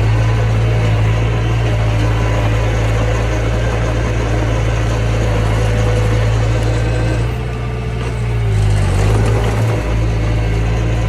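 Diesel engine of earthmoving machinery running steadily under load. It eases off briefly about seven seconds in, then picks back up.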